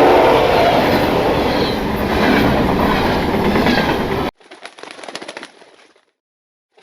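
Train running on the rails with a clickety-clack, a steady tone dying away in the first second. The sound cuts off abruptly about four seconds in, leaving a brief, much quieter crackle and then silence.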